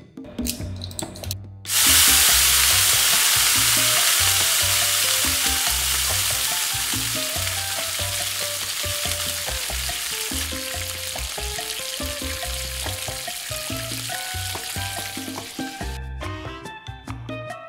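Food hitting hot oil in a miniature frying pan: a loud sizzle starts suddenly about two seconds in, fades slowly, and cuts off abruptly shortly before the end. Background music with a steady bass pattern plays underneath.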